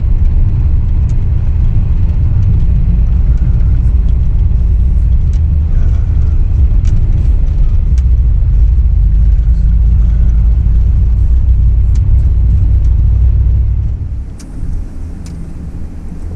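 Full-size pickup truck driving on a gravel road: a steady low engine and tyre rumble with scattered small ticks and clicks. It drops off noticeably about fourteen seconds in.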